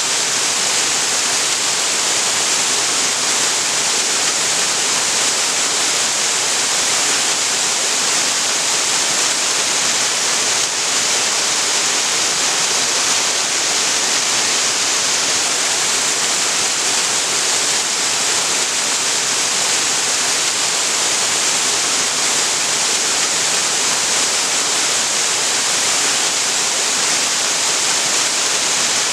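Small waterfall on a creek, water pouring and splashing in a steady, even rush with a strong hiss.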